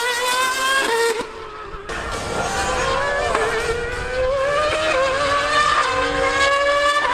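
High-revving racing engine under hard acceleration, its pitch rising. It drops away briefly about a second in, then climbs steadily again.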